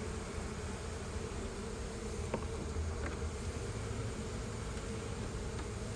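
A dense mass of honeybees buzzing in a steady, unbroken hum, many of them fanning their wings to spread the colony's scent to draw the rest in. Two faint ticks sound in the middle.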